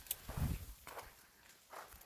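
Footsteps of a hiker walking on a trail: four uneven steps, the first three about half a second apart, then a gap before the last.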